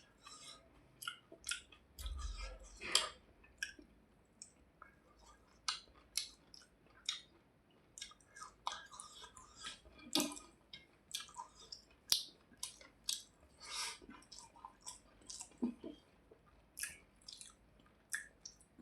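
Close-miked wet chewing and lip smacking of a mouthful of rice and fish curry, with irregular sticky clicks and smacks.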